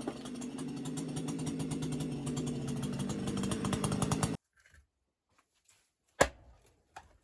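A small engine running steadily, cut off abruptly about four seconds in. Then two sharp knocks, the first louder.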